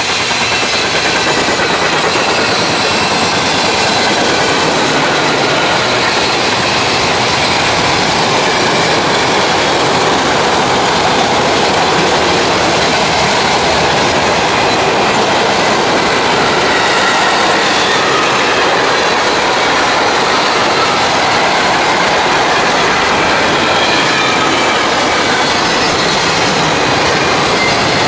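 CSX mixed freight train rolling past close by at track speed: a loud, steady rumble and rattle of freight cars' wheels over the rails, with faint wavering high-pitched squeals.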